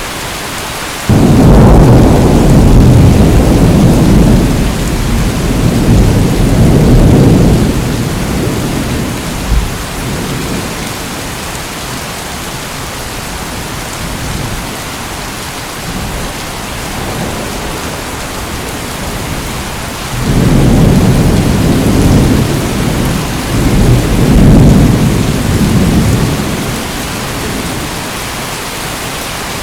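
Steady rain with two long rolls of thunder. The first starts suddenly about a second in and rumbles for several seconds; the second rolls in about two-thirds of the way through.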